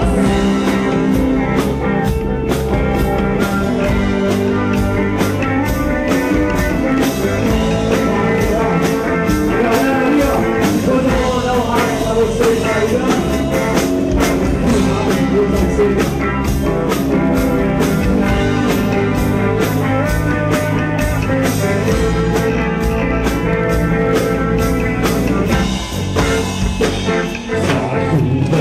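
Live rock band playing their song, with guitar, bass and drums keeping a steady beat. The band drops back briefly near the end.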